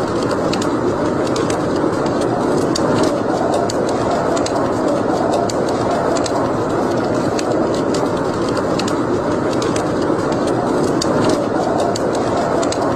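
Wood fire burning in a fireplace: a steady rushing noise of flames with frequent small crackles and pops.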